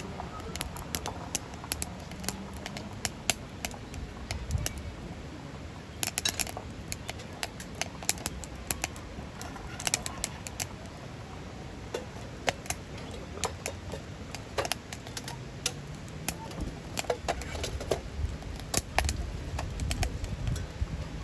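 Wood fire crackling in a Solo Stove Titan stove: irregular sharp pops and snaps over a low rumble of burning.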